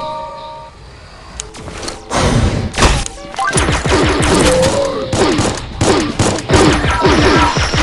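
A rapid barrage of firework reports, many sharp bangs and crackles a second from about three and a half seconds in, after a few scattered bangs, with music playing underneath.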